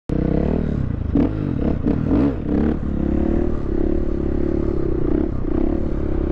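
Dirt bike engine heard from the rider's helmet camera, revving up and down a few times in the first seconds and then running at a fairly steady speed.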